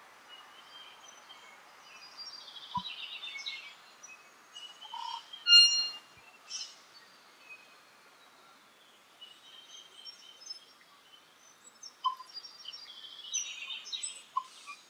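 Tui singing: scattered short whistled notes mixed with sharp clicks, in two busy passages with a quieter gap between them, over a faint background hiss.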